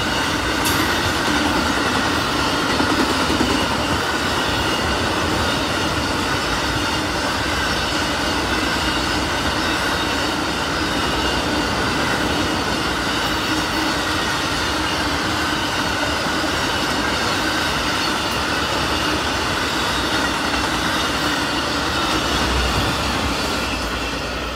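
Amtrak Auto Train autorack cars rolling past: a steady rumble of steel wheels on rail with a steady high whine over it, getting quieter near the end.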